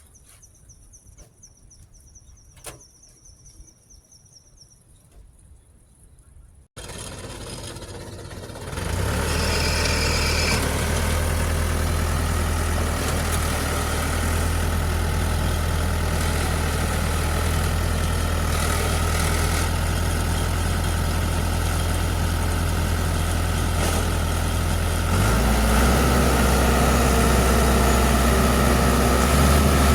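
Quiet with a few faint clicks at first, then after an abrupt change a heavy diesel engine of earth-moving machinery comes in and runs steadily with a low, even hum. Near the end its note drops lower and heavier.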